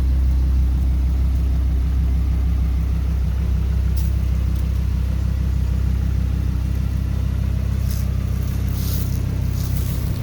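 Audi R8's 5.2-litre V10 engine idling steadily with a low, even rumble, with a few brief hissing sounds near the end.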